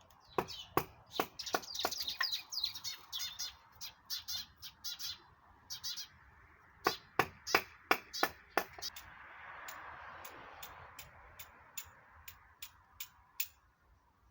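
Small birds chirping, with a series of sharp, separate clicks or snaps scattered through, and a soft rushing noise that swells and fades in the middle.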